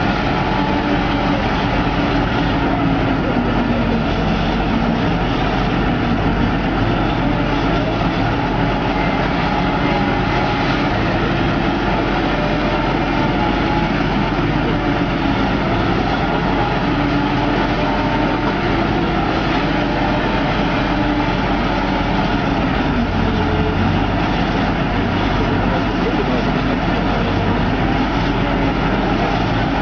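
Heavy construction machine's diesel engine running continuously, its pitch rising and falling repeatedly as it works under hydraulic load.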